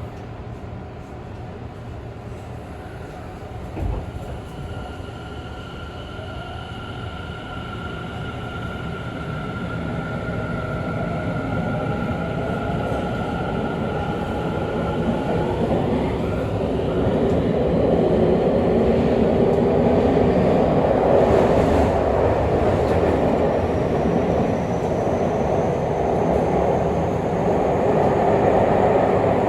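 Tobu 50000-series electric train pulling away from a station in a subway tunnel, heard from on board: a thump about four seconds in, then the electric drive's whine as it accelerates, with the running noise of wheels on rail growing steadily louder.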